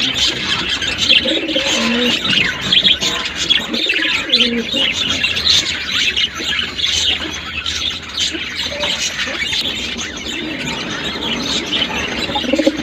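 A group of budgerigars chattering: a continuous dense stream of quick high chirps and twitters, with lower warbled notes mixed in now and then.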